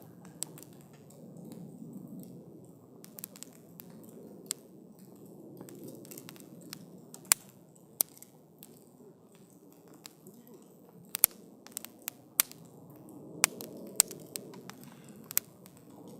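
Wood campfire crackling, with irregular sharp snaps and pops of burning wood, the loudest in the second half, over a low rushing of the flames that swells and fades.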